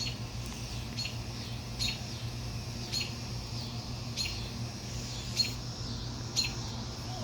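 Hummingbird giving short, sharp high chip calls, about one a second, over a steady low hum.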